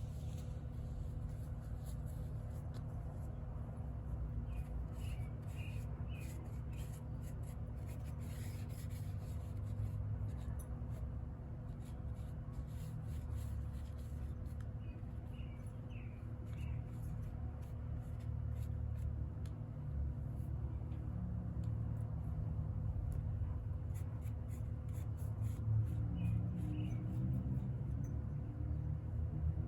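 Light scratching and rubbing, in scattered strokes, over a steady low hum.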